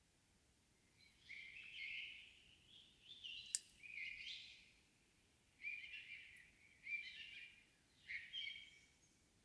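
Songbirds singing in a still evening forest: about five short, bright chirping phrases with quiet pauses between them, and a single sharp click about three and a half seconds in.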